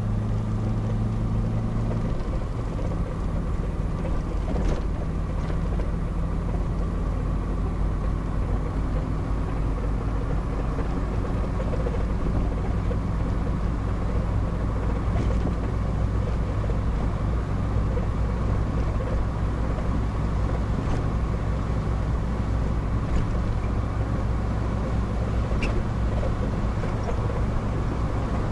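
Car being driven, heard from inside the cabin: a steady low engine hum under road noise, with the engine note changing about two seconds in.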